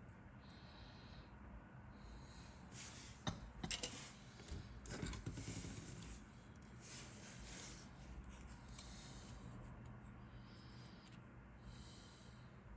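Faint handling of a plastic model kit and its box: a cluster of short clicks and rustles about three to five seconds in. Quiet breathing close to the microphone can be heard throughout.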